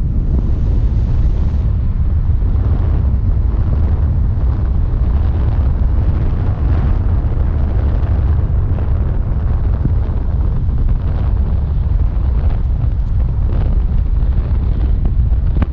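Heavy wind buffeting the microphone, a loud steady low rumble, as from travelling in a moving vehicle.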